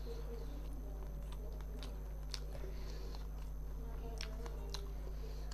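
Close-up eating sounds: a man chewing a mouthful of fish and rice, with irregular sharp wet mouth clicks. A steady low electrical hum runs under it.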